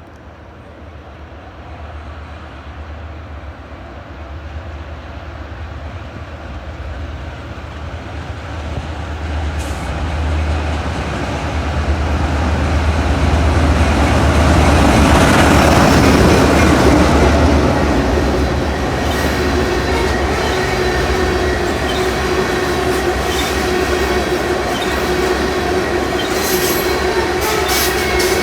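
A train approaching and passing, growing steadily louder to a peak about halfway through, then running on steadily with a thin steady squeal or whine over the rumble. Near the end the wheels click over rail joints.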